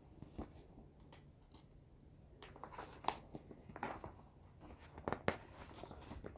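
Faint crinkling and scattered clicks of a picture book's paper pages being handled and turned, with a few sharper clicks about three and five seconds in.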